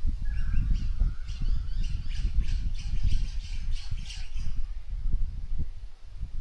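Birds squawking: a run of short harsh calls, about four a second, that stops about two-thirds of the way through, over a loud low rumble.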